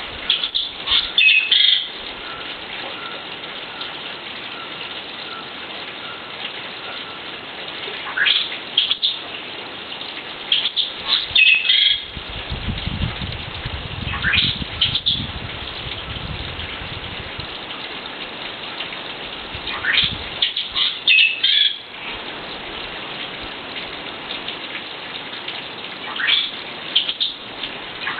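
Bird calls in short bursts of quick rising notes, recurring every few seconds over a steady hiss of rainforest background. A low rumble sounds for a few seconds midway.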